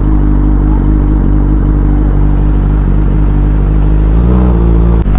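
Suzuki GSX-R600 inline-four engine running steadily at low revs as the motorcycle creeps along, with a brief change in engine note about four seconds in.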